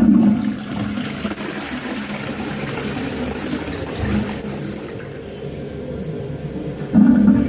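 Toilet flushing: a sudden rush of water that runs on steadily, with heavier surges at the start and again near the end.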